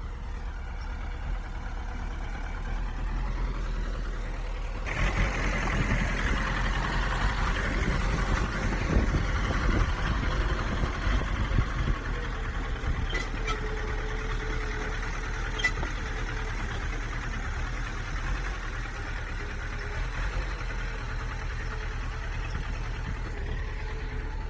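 Bulldozer's diesel engine running. About five seconds in it gets louder and rougher, then settles back to a steady run, with two short sharp clicks midway.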